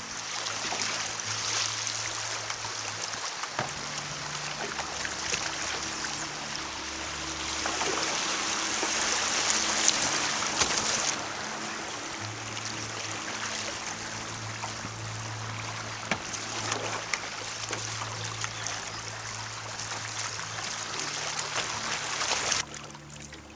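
Creek water rushing in a steady hiss, with background music's low notes underneath. The water sound drops suddenly about eleven seconds in and cuts away almost entirely near the end.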